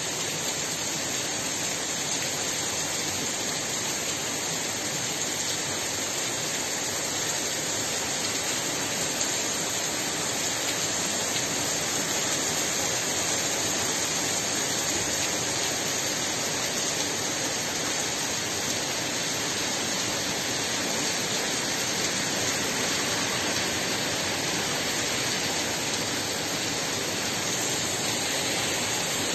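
Heavy thunderstorm rain falling steadily on a street and rooftops.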